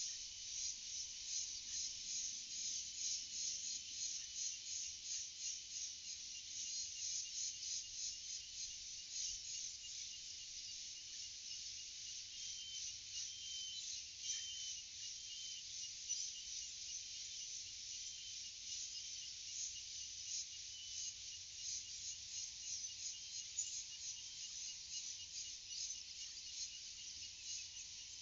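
A dense, high-pitched chorus of insects chirping in rapid, steady pulses, with a few short bird chirps about halfway through.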